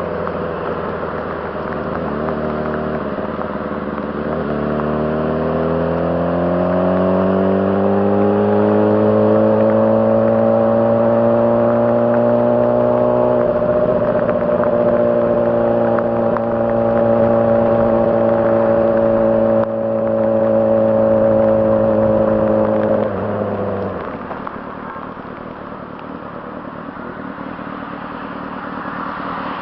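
2006 Honda CBR600RR inline-four engine pulling up through the revs for a few seconds, then holding a steady high pitch for about fifteen seconds with one brief dip. Near the end the throttle closes and the engine note falls away to a quieter rush.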